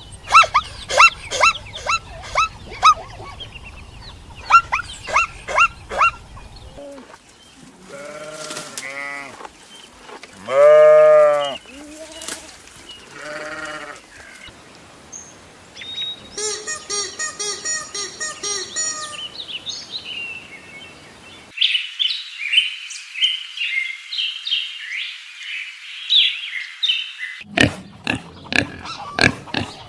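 Farm animal calls from several animals in turn, changing abruptly every few seconds. There is a run of quick repeated calls first, then a few long bleats around the middle, then high squeaks.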